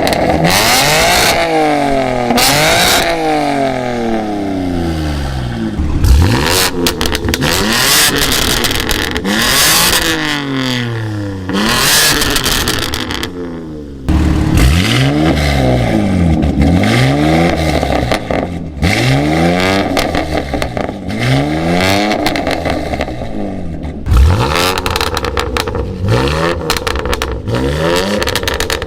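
BMW S58 twin-turbo inline-six revving through an aftermarket valved equal-length exhaust, the pitch climbing and falling again and again. It briefly goes quieter about halfway through.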